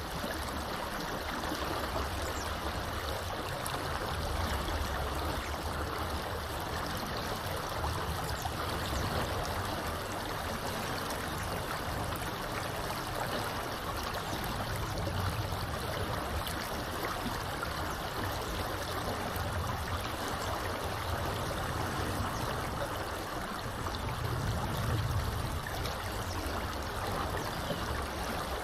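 A small river flowing with a continuous, even rush of water, over a low rumble that swells and fades.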